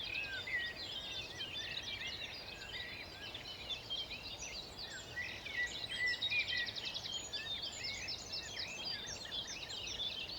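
Dawn chorus: many songbirds singing at once, with overlapping chirps, whistles and rapid trills.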